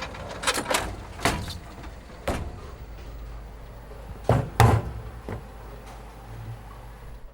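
A series of sharp knocks or bangs, about six over several seconds, the loudest two close together in the middle, over a steady low hum.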